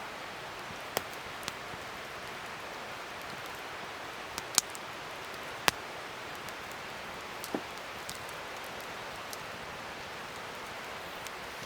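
Wood fire burning with a steady hiss and irregular sharp crackles and pops, the two loudest a little before and just after the middle.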